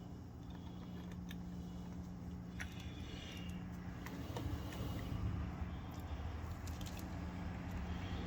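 Faint scattered clicks and light rattles of a screwdriver tightening screws on an aerator pump, over a low steady hum.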